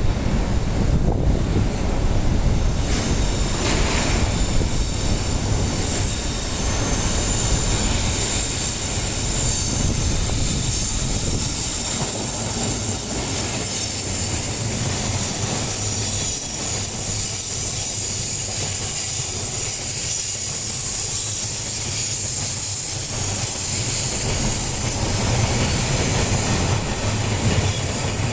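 Freight train rolling past with a steady rumble of wagons on the rails. A high, steady wheel squeal sets in a few seconds in and holds on.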